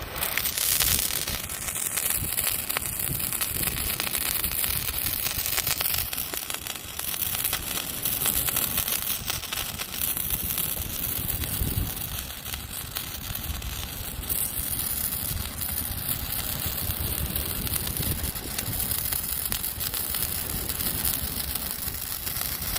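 Handheld colour-changing firework stick burning with a steady crackling hiss, which catches and brightens about half a second in.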